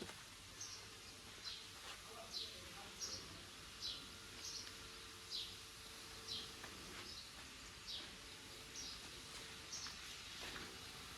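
A bird calling over and over: short, high chirps that each slide downward in pitch, about one every second, fairly faint.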